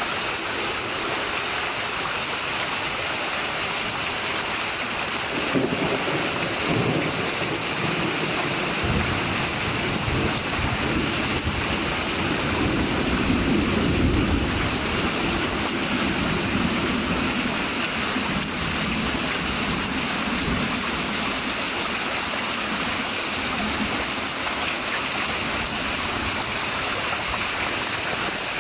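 Heavy rain pouring steadily, with a long roll of thunder that starts about five seconds in, peaks near the middle and slowly rumbles away.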